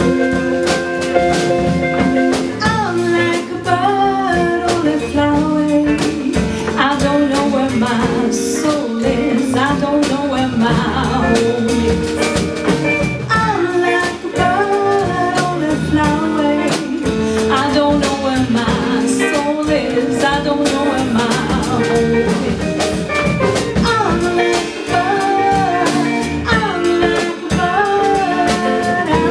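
Live pop band music with drum kit and guitar under a wavering lead melody line.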